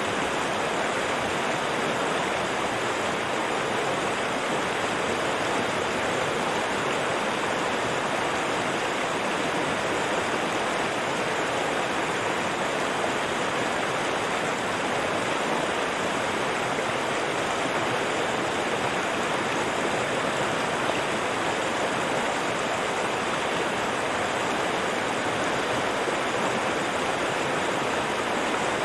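River water flowing over rocks, a steady rushing sound with no change in level.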